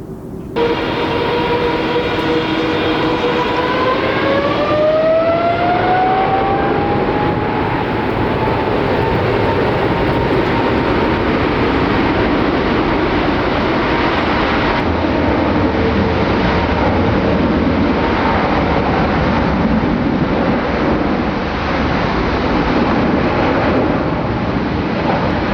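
Boeing 777 twin jet engines spooling up to takeoff thrust, a whine rising in pitch a few seconds in, then a loud, steady jet roar through the takeoff run.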